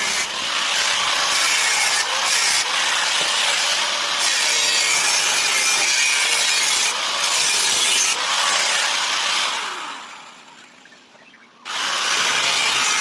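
A power tool grinding with a harsh, hissing sound. It dies away gradually about ten seconds in, then starts again sharply a second and a half later.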